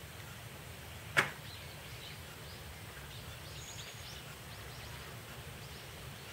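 Faint chirping of small birds, many short downward notes, over a low steady outdoor rumble. A single sharp click about a second in.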